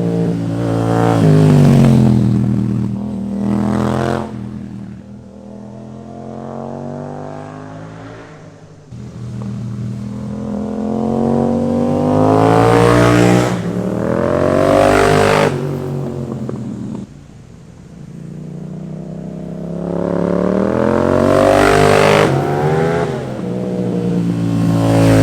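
Yamaha FZ-07 (MT-07) parallel-twin motorcycle engine through an aftermarket exhaust, accelerating hard under way: the revs climb and fall several times, with sudden drops as the throttle is rolled off or a gear is changed.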